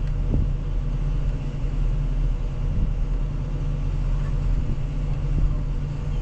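Heavy-equipment engine running steadily at constant speed: a continuous low rumble.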